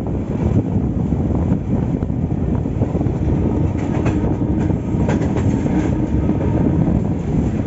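Passenger train running along the track: a steady rumble of the carriages with wheels clacking over the rail joints, and a few sharper clicks in the middle.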